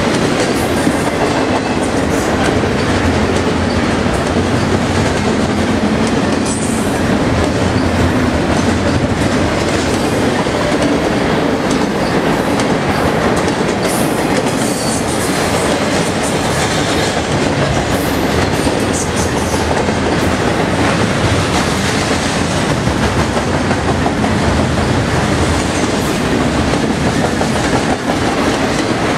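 Double-stack container freight train rolling steadily past: the loud, continuous noise of its wheels on the rails as car after car goes by.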